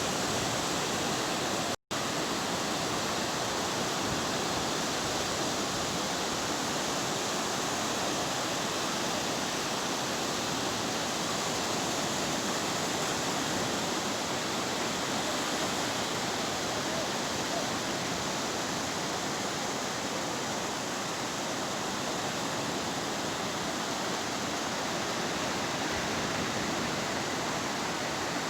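Steady, unbroken rush of sea surf breaking on a beach, cut off for an instant about two seconds in.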